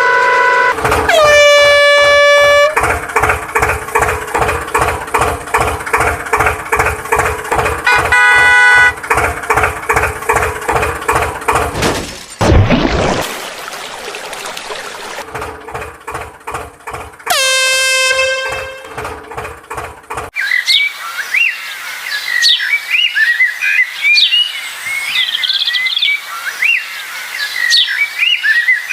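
Truck air horns sound several times: a multi-tone blast, one that slides down in pitch and holds, and two shorter blasts later on. Under the first part there is an even rhythmic pulsing, about three beats a second. In the last third, birds chirp in quick rising-and-falling calls.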